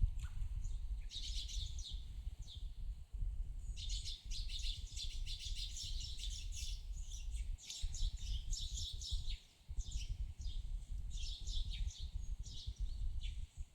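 Birds chirping in fast, high twittering runs, broken by short gaps, over a steady low rumble.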